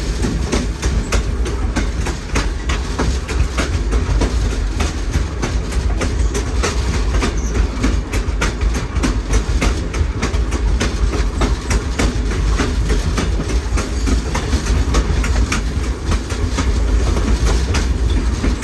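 Railroad car rolling along the track: a steady low rumble with many quick, irregular clicks of the wheels over the rail joints.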